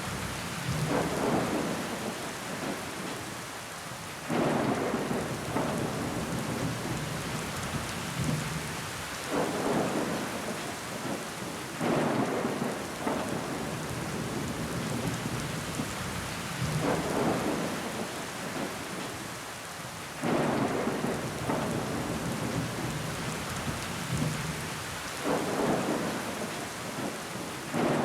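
Steady rain on window glass, with a louder surge of splashing, trickling water coming back every few seconds.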